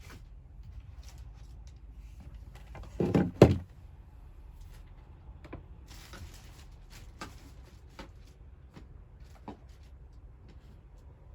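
A quick cluster of knocks about three seconds in, ending in one sharp thud, the loudest sound; faint scattered clicks and taps come before and after it over a low steady hum.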